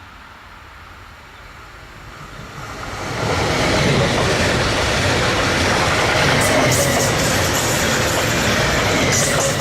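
A train comes up and runs past close by on the track. The rush of wheels on rail swells quickly about three seconds in, then holds as a steady loud rolling noise with a faint squeal and a few sharp high clicks.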